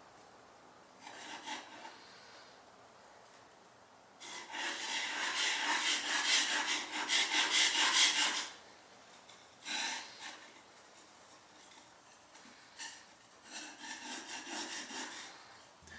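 Steel plane blade being honed by hand on a sharpening plate, a rasping scrape of quick back-and-forth strokes. There is a short burst about a second in, a long run of strokes from about four to eight seconds, which is the loudest part, then shorter runs near ten seconds and again near the end.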